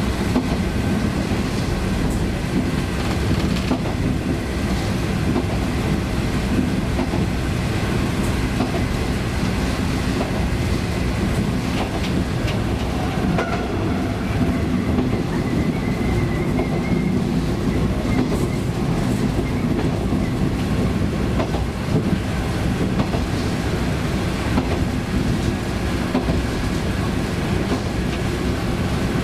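KiHa 20-series diesel railcar under way: its diesel engine runs with a steady drone under the continuous rumble of wheels on rail, with occasional clicks at rail joints.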